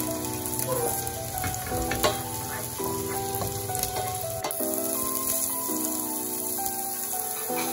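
Chopped onion and garlic sizzling in butter and olive oil in a stainless steel pan, stirred with a wooden spoon. Soft background music with held notes plays over it.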